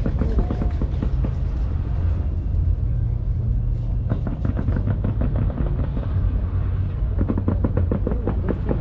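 Aerial fireworks: a steady low rumble of bursts, with bunches of rapid crackling about four seconds in and again near the end.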